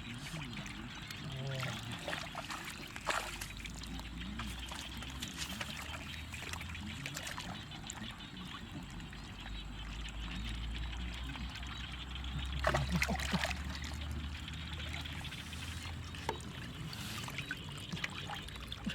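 Water trickling and pouring in a small flowing waterway, with a few sharp splashes or knocks about three seconds in, around the middle and near the end.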